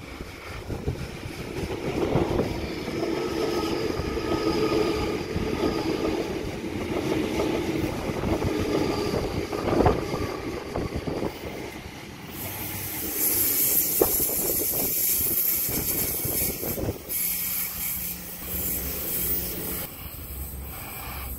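A Sydney Trains double-deck electric suburban train running past close by on steel rails, with steady wheel and motor noise and a sharp click about ten seconds in. About halfway through, a loud high hiss comes in suddenly and carries on over the passing train.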